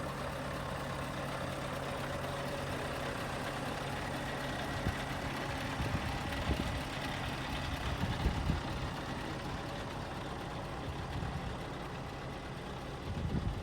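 Scania R580's V8 diesel engine idling steadily on a hook-lift truck, with irregular low thumps in the middle and near the end.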